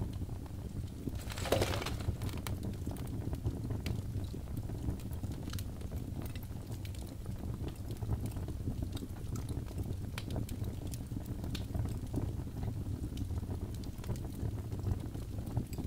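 Birch-log fire burning in a fireplace: a steady low rumble of flame with scattered crackles and pops, and a brief louder hiss and crackle about a second and a half in.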